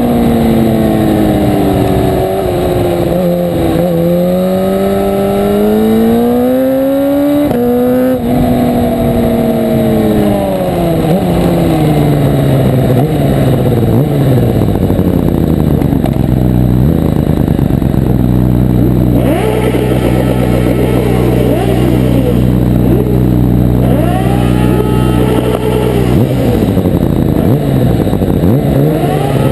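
1000 cc superbike engine running hard, its pitch climbing and dropping sharply again and again as it revs up through the gears. About halfway through the note holds steady for several seconds before it starts rising again.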